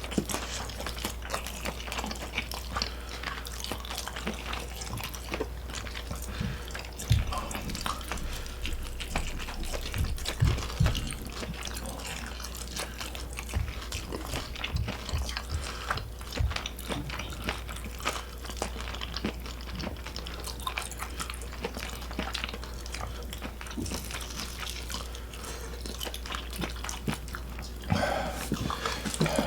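Close-miked eating sounds: chewing with wet mouth noises and many small clicks, from spicy squid stir-fry and fried chicken being eaten.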